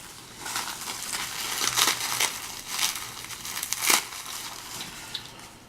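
Plastic packaging crinkling and crackling as it is handled and pulled open, with a few sharper snaps around two and four seconds in.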